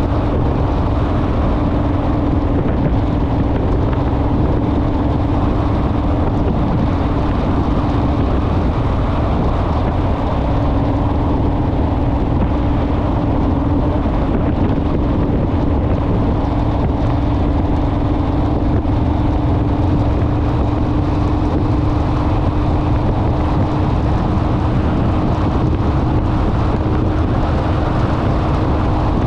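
Honda Rebel motorcycle riding at a steady cruise, its engine note holding one even pitch under heavy wind rush on the microphone.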